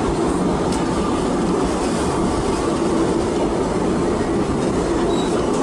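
Disneyland Railroad steam train running along the track: a steady rumble of wheels on rails, heard from a passenger car.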